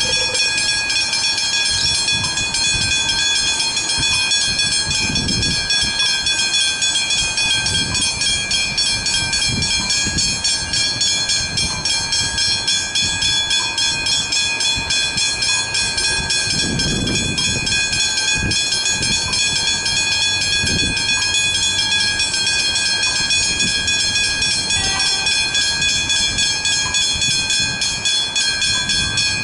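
Level crossing warning bells ringing in a fast, steady, even repeat of bright metallic tones. Low rumbles come and go underneath, the largest about halfway through.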